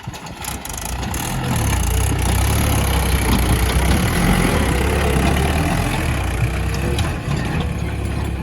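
Tractor engine running loud, building up over the first two seconds, holding steady, then easing off near the end.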